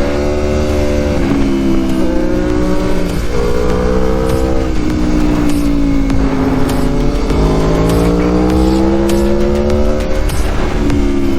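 Large-displacement naked sportbike engine running under way, its pitch climbing slowly and dropping sharply several times as the bike pulls through the gears and rolls off the throttle, over steady wind rush.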